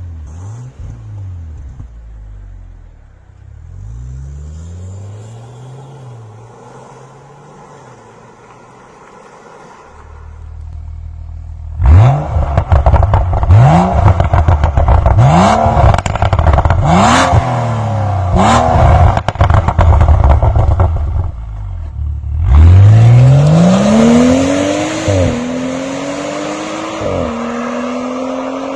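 BMW M135i turbocharged straight-six through a custom valved stainless exhaust: low running at first, then five sharp throttle blips with crackling pops on the overrun, then a hard acceleration rising in pitch through two upshifts.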